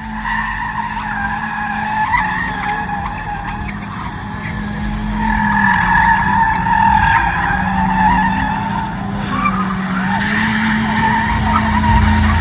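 Car tyres squealing under wheelspin in a long, wavering screech over a running engine, loudest about five to eight seconds in.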